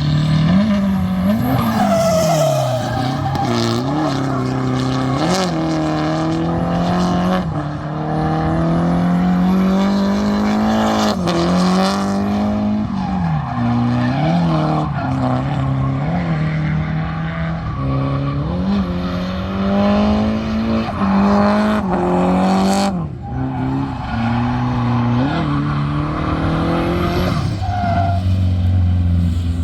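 Drift car's engine revving up and down again and again as the car slides, with tyres squealing throughout.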